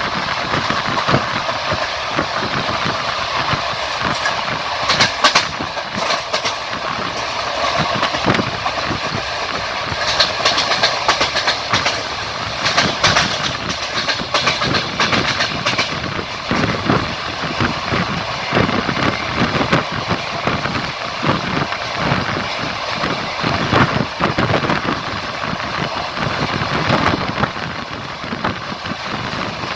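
Railway carriage in motion: a steady rumble of running wheels on the track, with repeated clacks and knocks as the wheels cross rail joints.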